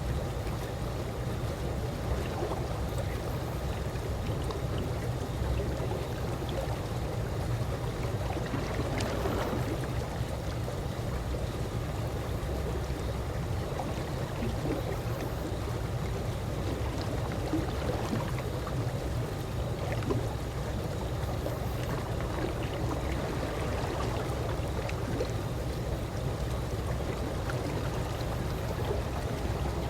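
Calm swimming-pool water lapping and sloshing gently, a steady low wash with small scattered drips and splashes.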